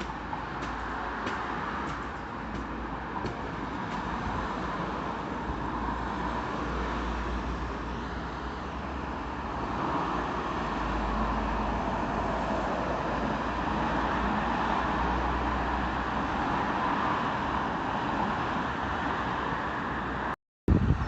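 Road traffic passing steadily, the noise of passing vehicles swelling and easing over a low rumble; the sound cuts out for a moment near the end.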